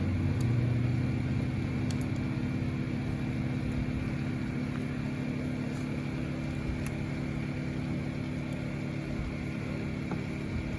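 A steady low droning hum with several held tones, a little louder in the first second or so and then easing slightly, with a few faint clicks.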